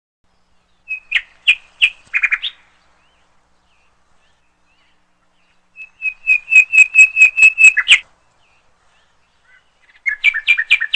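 A songbird singing three short phrases of quick repeated high chirps, the middle phrase a fast run of about eight to ten notes, with clean silence between the phrases.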